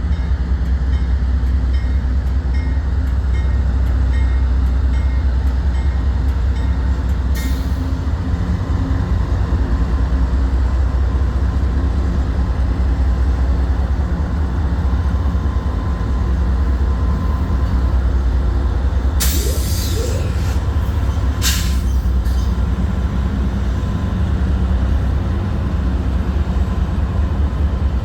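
Union Pacific diesel locomotives running with a steady low rumble, with short hisses of air about seven seconds in and twice more around twenty seconds in.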